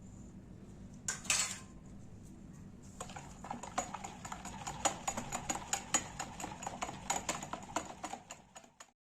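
Metal kitchen utensils clinking against cookware: a short scrape about a second in, then rapid repeated clinks, about four a second, until the sound cuts off abruptly near the end.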